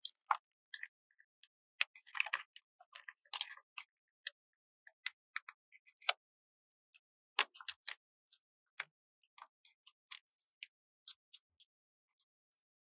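Close-miked sticker handling: crisp, irregular clicks and crackles of stickers being peeled off their backing paper and pressed down. There is a denser crackling stretch about two to four seconds in.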